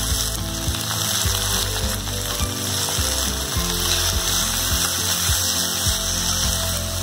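Chopped tomatoes and potatoes frying in oil in a steel pan, sizzling steadily as a slotted steel spatula stirs and scrapes them. Throughout there is a steady mechanical rattling, like a ratchet.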